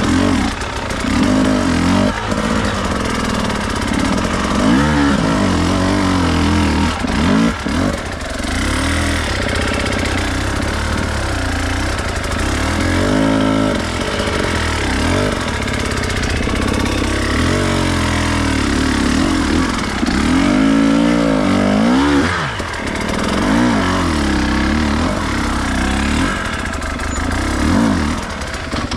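Enduro dirt bike engine revving up and down over and over as the throttle is worked, its pitch rising and falling every second or two.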